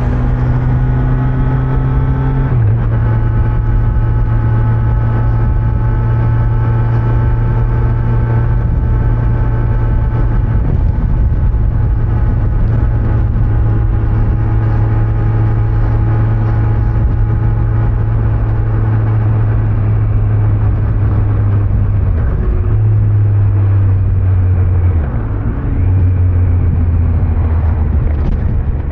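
Kawasaki Z900's inline-four engine running under way through its stock exhaust, a steady engine note that steps in pitch near the start and again a few times after about twenty-two seconds, with a brief dip in level around twenty-five seconds.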